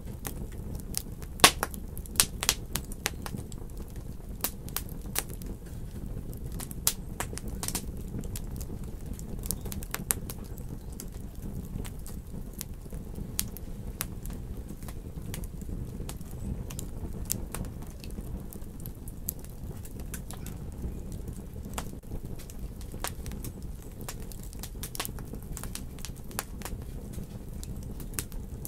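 Wood fire crackling in a fireplace: a steady low rumble of burning with frequent sharp pops and snaps, most numerous in the first few seconds.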